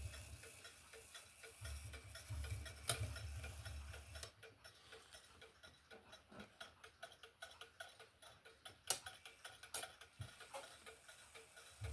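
HAC-Junghans wall clock movement ticking steadily after repair, with a few louder clicks among the ticks. A low hum sits under the ticking for the first four seconds.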